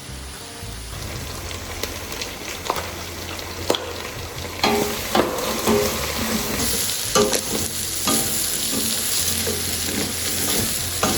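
Beef and onions frying in oil in a metal pot (sufuria), a steady sizzle that grows louder about two-thirds of the way through, with a spoon knocking and scraping against the pot as it is stirred.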